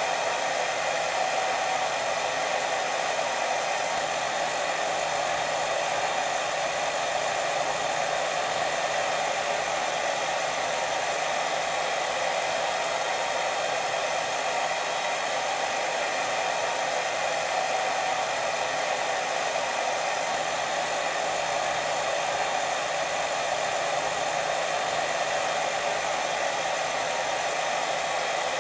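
Steady white-noise hiss for sleep, unbroken and even, heaviest in the middle and upper range with little low rumble.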